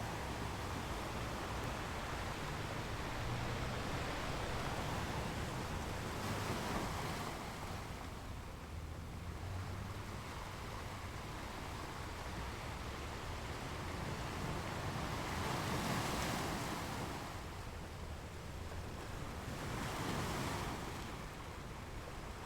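Ocean waves washing in, a steady rushing surf with a low rumble underneath that swells and fades in slow surges, three times.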